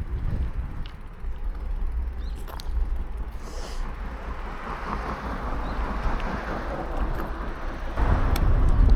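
Wind rumbling on the microphone of a moving bicycle, with road hiss that swells and fades in the middle and a few light clicks; the wind grows louder near the end.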